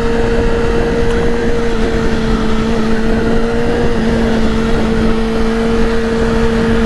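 Yamaha R6's inline-four engine running at a steady, high, unchanging pitch while the motorcycle cruises, with wind rush over it.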